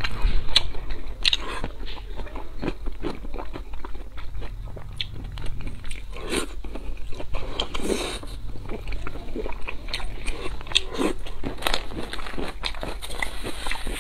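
Close-up eating sounds from chewing and biting into red-braised pork belly, with many quick crunches and mouth clicks.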